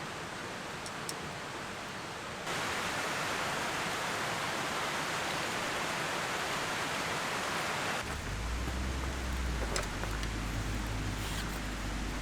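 Steady outdoor hiss. It grows louder about two and a half seconds in, and changes again about eight seconds in, when a low rumble joins it.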